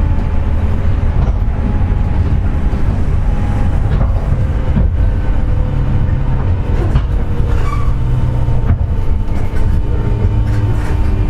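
Onboard running sound of a JR West 201 series electric train motor car (MoHa 201-280): a steady rumble from the wheels on the rails with steady whining tones over it. The whine is the train's 'jet sound', which comes from bearings damaged by electrical pitting.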